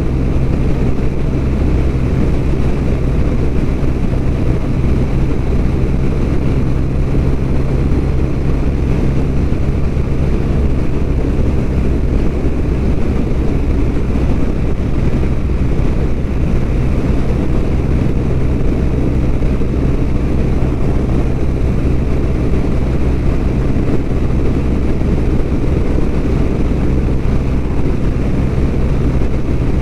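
BMW R1200RT's boxer-twin engine running steadily at cruising speed, under a steady rush of wind and road noise.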